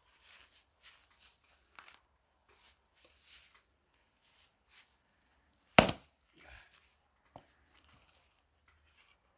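A single loud, sharp axe blow into a log of firewood a little past halfway, among quieter scuffing and rustling sounds, with a small knock about a second and a half later.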